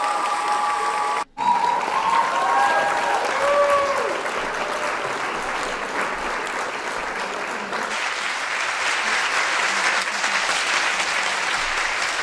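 Audience applauding steadily, with a few voices calling out over the clapping in the first few seconds. The sound drops out briefly about a second in.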